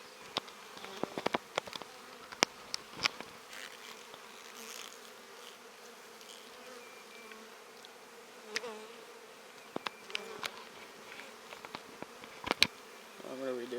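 Honeybees buzzing around an open hive during an inspection: a steady hum with single bees' wavering drones passing close by, and scattered sharp clicks and knocks.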